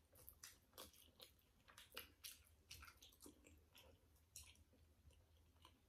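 Faint, irregular chewing and wet mouth clicks of people eating sushi rolls.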